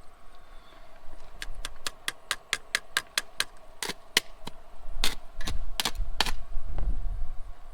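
Hand hammer tapping on the welded-on washer and bolt: a quick run of light metal taps, about five a second, then about six heavier strikes.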